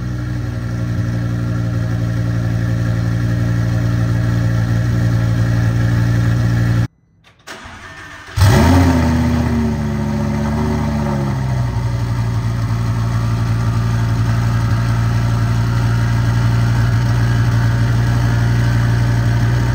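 Twin-turbo Audi R8's V10 idling steadily on a cold start. About seven seconds in, the sound drops away for a second and a half. Then the engine fires again on a second cold start with a loud flare of revs, which falls over a few seconds back to a steady fast idle.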